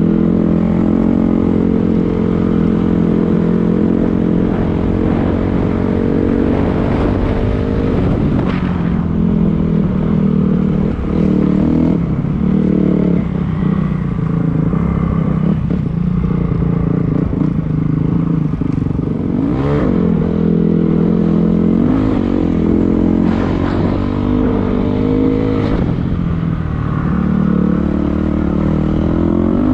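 Dirt bike engine running under way, held steady for stretches and revving up and down several times with throttle changes.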